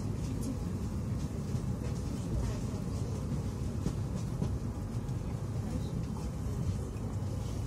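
Electric train's steady running rumble of wheels on rails, heard from inside the passenger car as it moves alongside a station platform.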